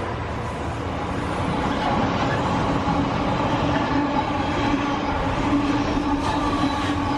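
Freight train running past at close range: a steady rumble of wheels on the rails with a continuous hum.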